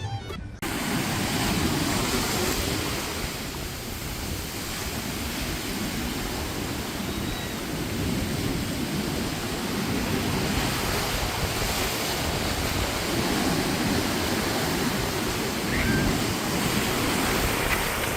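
Steady rushing noise with uneven low rumbling gusts, with no music or voices.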